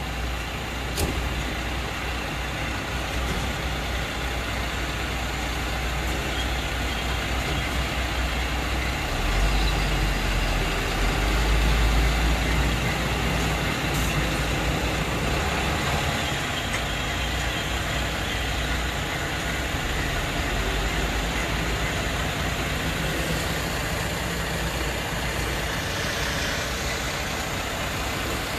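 Heavy diesel truck engines running steadily, with a low rumble that swells louder about nine to thirteen seconds in.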